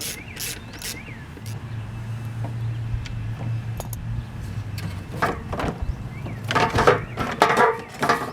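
Hand-tool work under the hood: a few ratchet clicks, then a steady low hum for a few seconds, then a run of knocks and rattles from parts and tools being handled, loudest near the end.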